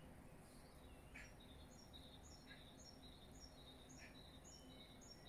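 Faint birdsong over a low outdoor background hum: a small bird repeats a high two-note phrase, about three phrases a second, starting about a second in.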